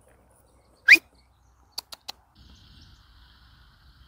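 A bird's short, sharp rising chirp about a second in, then three quick clicks, with a faint steady hum after that.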